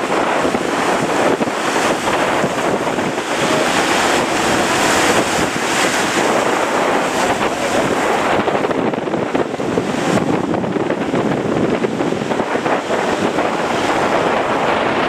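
Strong wind blowing on the microphone over the steady wash of large breaking waves.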